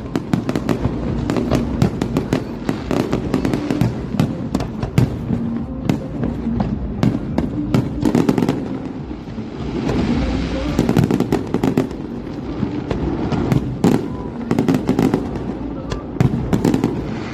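A fireworks display: a rapid, continuous series of shell bursts and crackling bangs over a low rumble. About ten seconds in there is a spell of hissing crackle.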